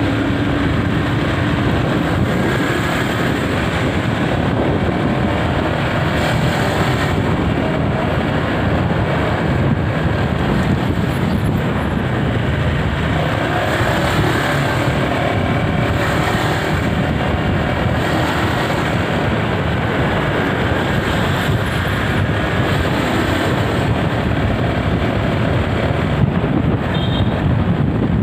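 Steady road traffic noise: motorbikes and cars running past on a busy street.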